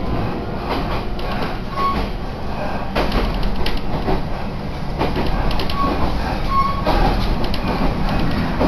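Train running, heard from inside the carriage: a steady low rumble with sharp clicks of the wheels over rail joints and a few brief high squeaks.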